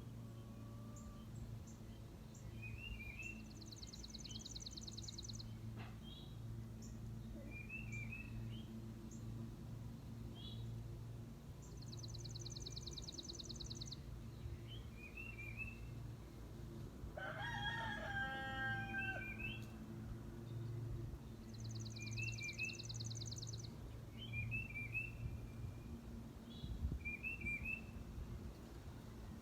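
A rooster crows once, about two-thirds of the way through, over repeated short high chirps of small birds and a high buzzy trill that comes three times. A steady low hum runs underneath.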